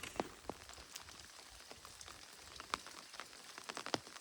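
Raindrops falling, a faint hiss with scattered sharp, irregular taps of drops landing close by, a few louder ones near the end.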